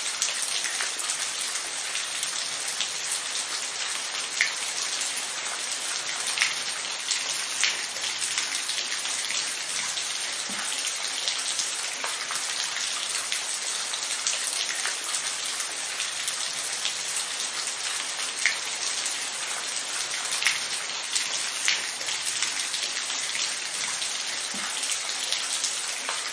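Steady rainfall, an even hiss of rain with scattered individual drops tapping out clearly now and then.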